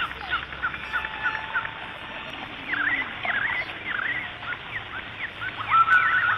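Birds chirping, many short rising and falling calls overlapping. Near the end a whistled tune of steady repeated notes starts up.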